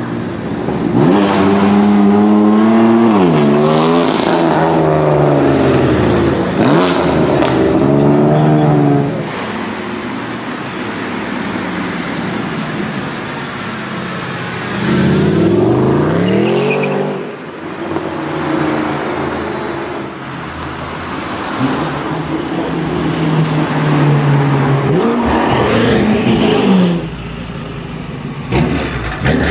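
High-performance car engines accelerating hard, rising in pitch and dropping back at each gear change, in three loud bursts with quieter running between.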